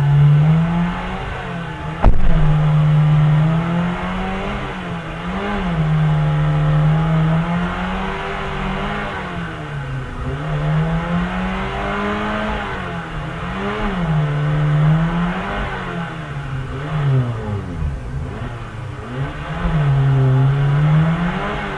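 Car engine revving up and dropping back again and again, its pitch swinging every couple of seconds as if accelerating and shifting or lifting off. About two seconds in there is a single sharp knock.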